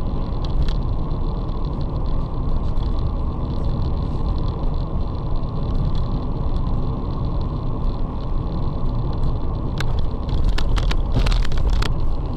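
A car driving, recorded by a dash camera, with steady low road and engine noise. About ten seconds in comes a quick cluster of sharp knocks and clicks.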